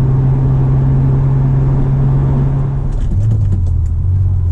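Twin-turbocharged V6 of an Acura NSX running steadily at speed under road and wind noise, heard from inside the car. About three seconds in, the noise eases and the engine note drops in steps as the throttle is lifted.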